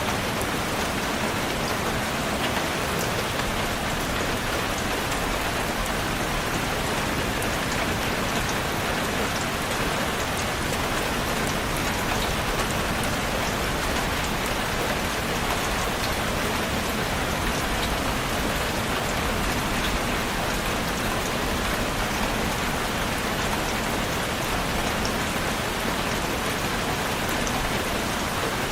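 Steady rain falling on a surface, a dense even hiss with many small drop ticks scattered through it, unchanging in level.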